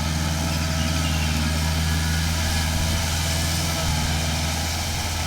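Kubota tractor's diesel engine running steadily at a constant speed, a low even hum with no revving.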